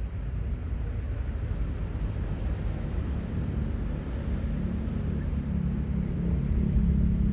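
Low rumble of a passing airplane, growing gradually louder, with a steady hum coming up in the second half.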